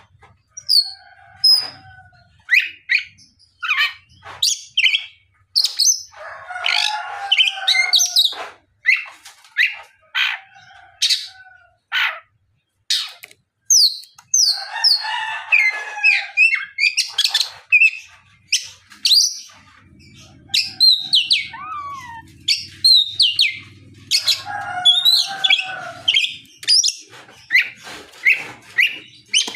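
Oriental magpie-robin singing loudly and continuously: quick sharp whistled notes that slide up and down, broken every several seconds by harsher chattering phrases.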